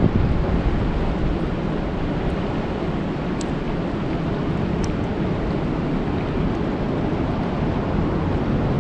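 Steady rain falling on a lake: an even hiss of drops on the water, with a couple of faint ticks in the middle.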